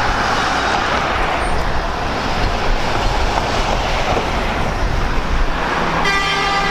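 Steady vehicle engine and road noise, with a horn sounding about six seconds in and holding on to the end.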